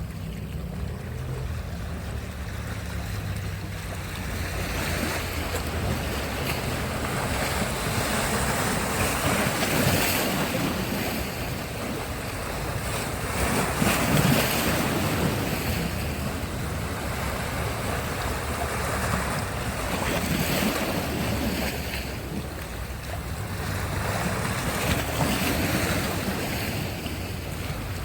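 Sea surf breaking and washing up the shore, swelling louder every few seconds as each wave comes in, with a low wind rumble on the microphone.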